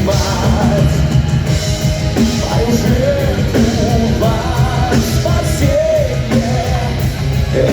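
Heavy metal band playing live: drums, bass and distorted guitars at a steady loud level, with a voice singing a melody over them.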